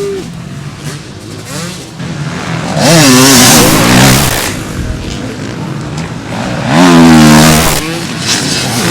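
Motocross bikes' engines revving as they race past, with two loud passes, about three and seven seconds in, whose pitch rises and then falls away, over the steady drone of other bikes on the track.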